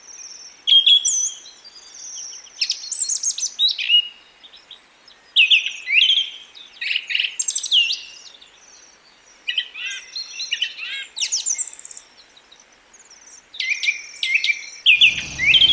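Many small birds chirping and singing together: bursts of quick, high, downward-sweeping whistled notes with short lulls between. A low rumble comes in near the end.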